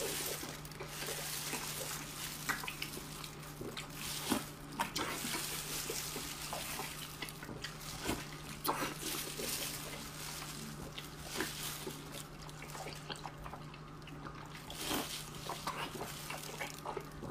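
Close-up wet chewing, lip-smacking and slurping on fatty braised pork, a dense run of irregular squelches and clicks over a steady low hum.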